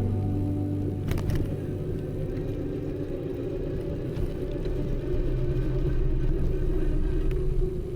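Low, steady rumble of city street traffic, with a few sharp clicks, as background music fades out in the first second.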